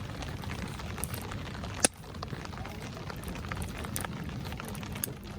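Wood fire crackling in a stainless-steel Solo Stove, with scattered small snaps and one loud sharp pop a little under two seconds in.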